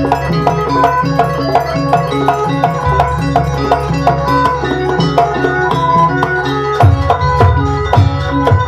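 Live traditional East Javanese (Banyuwangi) gamelan music for a barong/jaranan dance: hand drums and struck pitched percussion playing a fast, rhythmic melody, with the low drumming growing heavier near the end.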